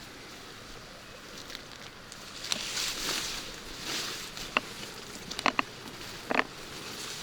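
Rain falling steadily, with sharp taps of drops landing close by, several in quick succession in the second half.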